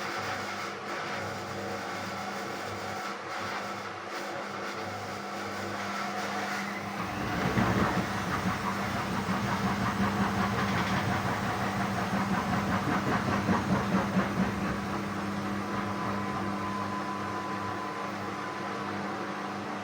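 Indesit WISN 101 washing machine on its rinse cycle: the drum motor runs with a steady hum, then about seven seconds in it grows louder and rougher, with the drum and water churning, before easing off.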